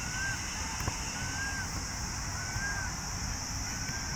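A bird calling over and over, a short whistled note that rises and falls, about once a second. Under it runs a steady high insect drone with wind rumble on the microphone, and there is a single soft knock just before a second in.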